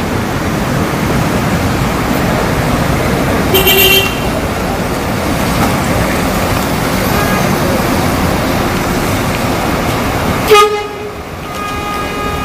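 Coach horn tooting over steady road and traffic noise: a short toot about three and a half seconds in, then a louder, longer blast near the end.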